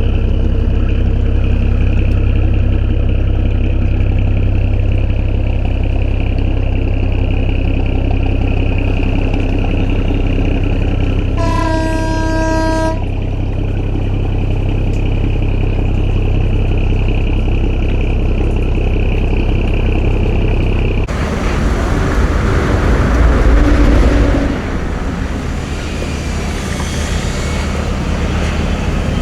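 A boat engine running steadily, with a horn sounding once for about a second and a half near the middle. About two-thirds of the way through, the sound switches abruptly to a rougher, noisier engine rumble that swells for a few seconds and then eases.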